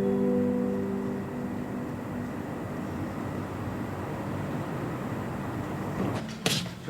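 A steady rushing noise, like a fan or running machinery, with a few held musical notes fading out in the first second or so.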